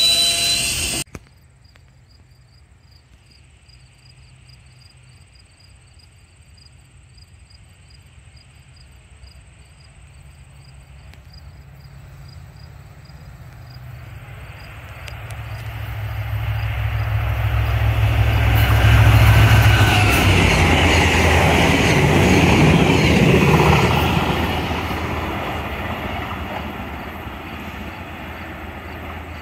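A Via Rail passenger train approaches from a distance and passes the station at speed: its rumble and wheel noise build slowly, are loudest about two-thirds of the way through, then fade. In the first second, a GO Transit bilevel train is heard passing close by, and that sound cuts off suddenly.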